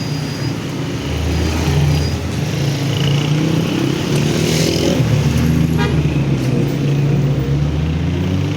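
Motor vehicle engine running close by, with road traffic noise, growing louder about a second in. A brief rapid clicking comes about six seconds in.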